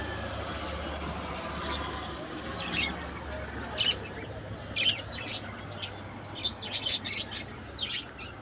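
Small birds chirping in short, sharp chirps, a few scattered ones from about three seconds in, then a quick run of them near the end, over a steady low hum.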